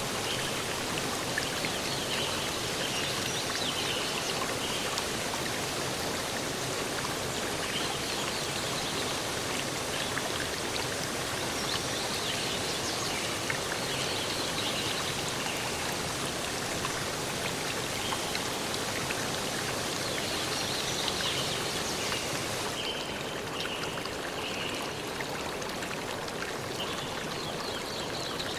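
Steady rush of running water from a forest stream, with short high chirps now and then. About two-thirds of the way through, the highest hiss drops away and the water sounds a little duller.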